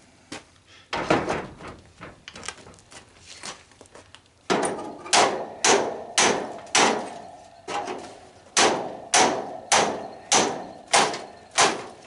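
Hammer blows knocking a part of a tanning bed loose: one hard strike about a second in and some lighter knocks, then from about halfway a steady run of hard strikes, about two a second.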